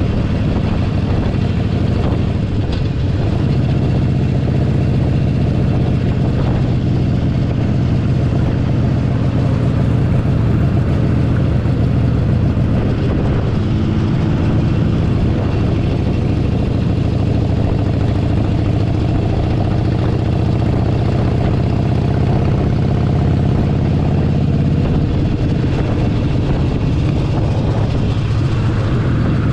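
Harley-Davidson Forty-Eight Sportster 1200's air-cooled V-twin engine running steadily while the bike is ridden, heard from the saddle. Its pitch shifts a little over the second half.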